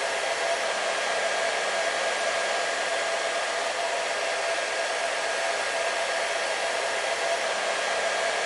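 Hair dryer running steadily: an even rush of blowing air with a steady motor hum.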